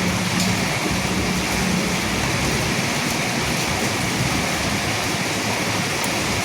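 Steady rain falling, an even hiss of drops without pause.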